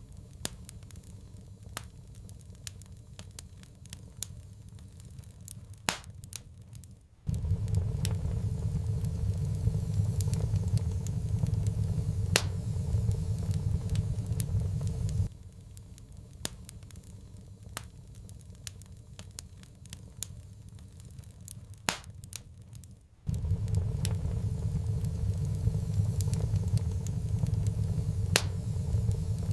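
Wood fire crackling in a fireplace, with irregular sharp pops and snaps. A low rumble cuts in abruptly about seven seconds in, drops out around fifteen seconds, and returns around twenty-three seconds.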